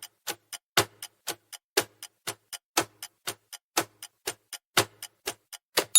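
Countdown timer sound effect ticking like a clock, about four ticks a second with a louder tick once every second.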